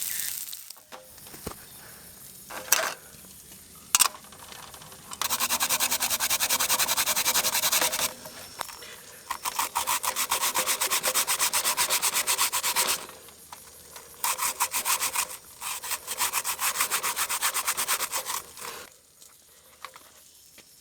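Hand saw cutting through a wooden branch in three bouts of rapid back-and-forth strokes, with a couple of sharp knocks before the sawing starts.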